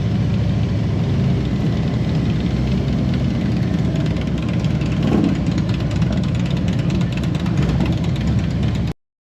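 Motorcycle engine running steadily with a low rumble, cutting off suddenly near the end.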